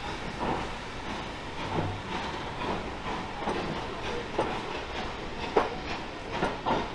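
Train running on the track, with irregular knocks and clicks over a steady rumble.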